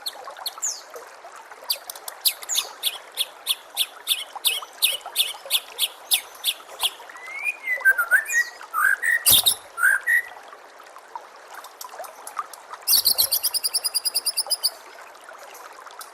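White-rumped shama (murai batu) singing: a fast run of sharp high notes, then a few slurred whistles with one loud sharp note in the middle, and a rapid buzzy trill near the end. Water trickles steadily beneath.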